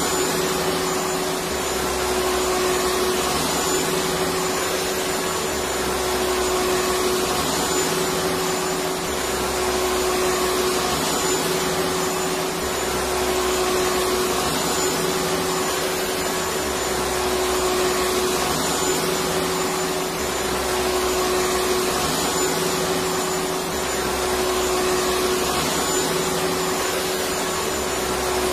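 Electric vacuum cleaner running steadily: a continuous rushing noise of the motor and airflow with a constant hum, and a faint low pulsing that repeats about every two seconds.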